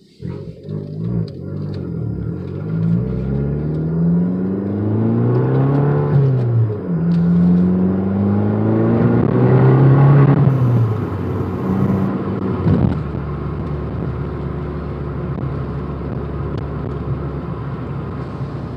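Fiat 500 Abarth's turbocharged 1.4-litre four-cylinder engine pulling hard through two gears, heard from inside the cabin. The revs climb, drop at a shift about six seconds in, climb again and drop at a second shift near ten seconds, then settle into a steady cruise.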